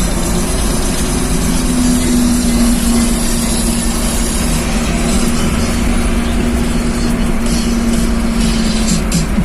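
Truck engine running with a steady exhaust drone.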